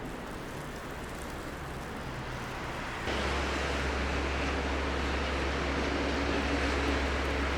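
Snowy city street ambience: a steady hiss of traffic and wet snow with no voices. About three seconds in, a steady low rumble and a brighter hiss come in abruptly and hold.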